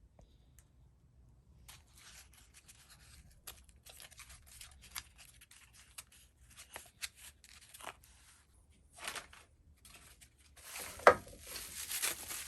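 Quiet scattered rustling and crackling of something being handled, becoming a louder, denser crinkling near the end.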